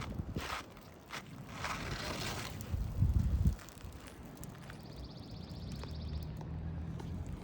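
Asphalt roofing shingle being forced up against a nail that still holds it down: scattered scrapes and clicks, then a short low rumble about three seconds in.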